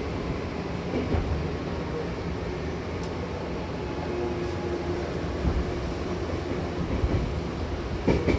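Hankyu Takarazuka Line electric train running, heard from inside the car: a steady rumble of wheels on rail with a few short knocks, and a sharper knock near the end.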